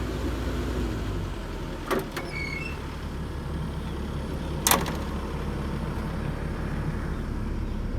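Hitachi 135US excavator's engine running steadily, with two sharp clacks, one about two seconds in and one just before five seconds.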